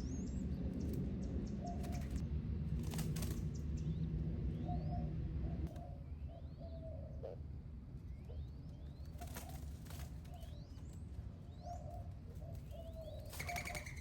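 Birds calling: many short, quick rising chirps and scattered short low notes. Three brief rushes of noise stand out, the loudest near the end. A steady low rumble underneath drops away about six seconds in.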